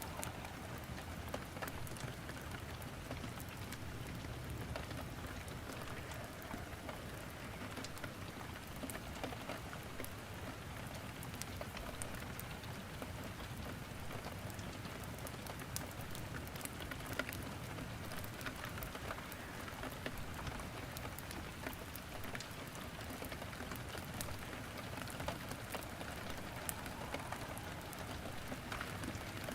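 Steady rain falling, with frequent short sharp pops and crackles from firewood burning in a fireplace mixed in.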